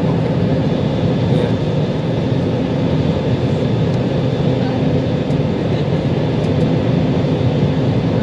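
Steady cabin noise inside an Airbus A320: the continuous drone of the jet engines and airflow, with a thin steady high whine over a low hum.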